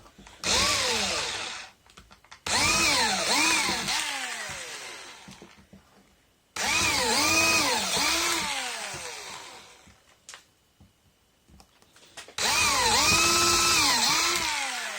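Old Makita cordless hammer drill run in four trigger pulls, the motor's pitch rising and falling several times within each pull as the variable-speed trigger is squeezed and eased. It is a test run after fitting an airsoft LiPo battery in place of the original pack.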